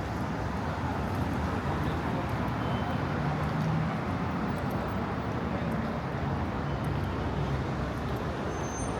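Steady road traffic on a city avenue: a wash of passing vehicles with a low engine rumble that swells slightly around the middle.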